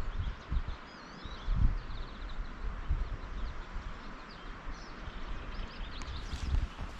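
Small birds chirping in short, quick calls over a steady outdoor hiss, with irregular low thumps underneath.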